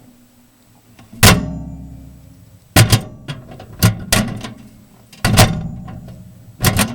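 Microwave oven door being opened and shut again and again: about six sharp clacks of the door and its latch at uneven intervals, each ringing briefly in the metal cabinet.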